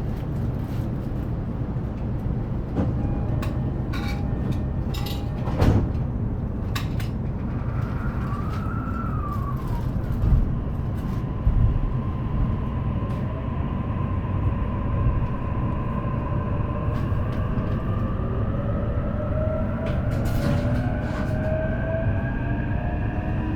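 JR East E233 series electric train running, heard from inside the carriage: a steady wheel-and-rail rumble with scattered clicks from the track. From about the middle, the inverter and traction motors give several thin whining tones that slowly rise in pitch as the train gathers speed.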